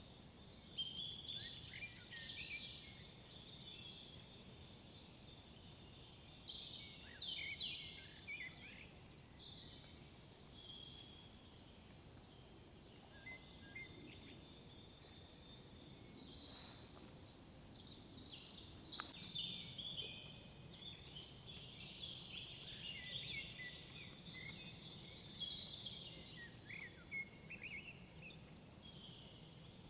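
Several songbirds singing in overlapping phrases of chirps and quick glides, with a high thin trill repeated about four times, over a faint low background rumble.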